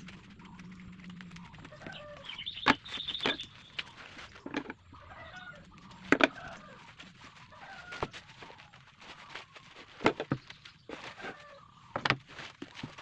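Scattered sharp taps and knocks, with short bird calls in between, typical of chickens clucking.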